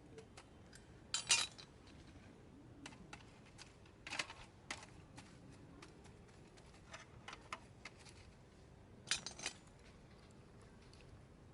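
Wood campfire crackling, with irregular sharp pops and small clusters of snaps about a second in, around four seconds in and near the end.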